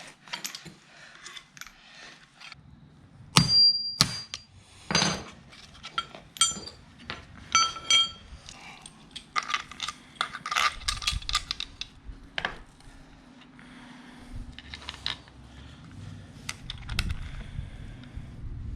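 Metal tools and steel parts clinking and knocking as bush spacers are worked out of aftermarket control arms with a socket, with a few sharp ringing metal strikes, the loudest about three and five seconds in.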